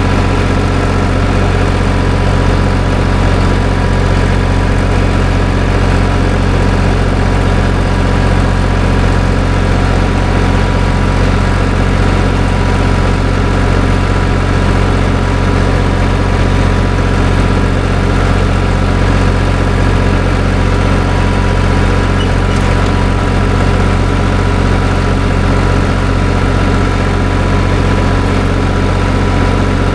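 Farm tractor's diesel engine running steadily at an even speed, a loud, unchanging hum with no revving.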